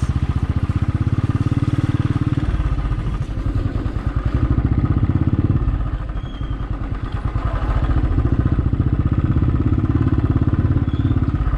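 Motorcycle engine running with a steady, even firing beat, easing off briefly about halfway through.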